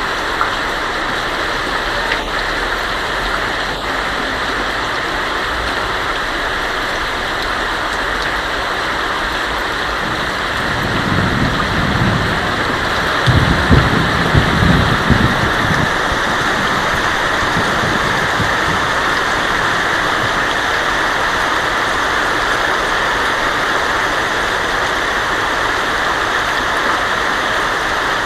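Heavy rain drumming steadily on a tin roof, with a roll of thunder that swells about eleven seconds in, peaks a few seconds later and fades out.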